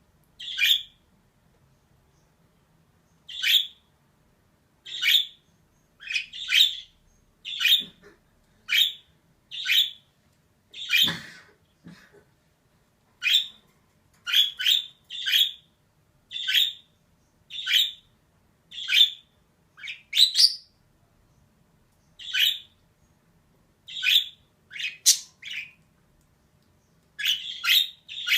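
Female budgerigar giving short, sharp chirping calls, about one a second, in irregular runs broken by brief pauses.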